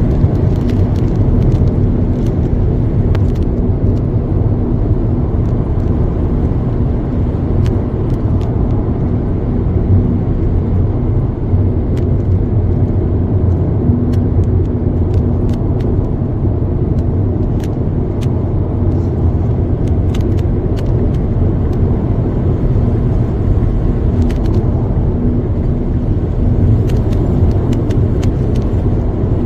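Car driving steadily, with a continuous low rumble of engine and road noise and faint scattered ticks and rattles.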